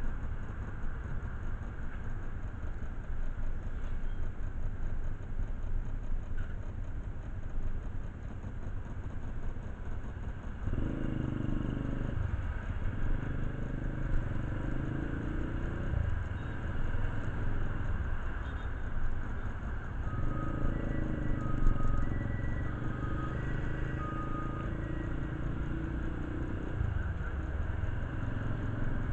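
Motorcycle engine running over a steady low rumble. About ten seconds in, a steady, even-pitched engine hum sets in and drops out briefly twice. A few short high tones come in between.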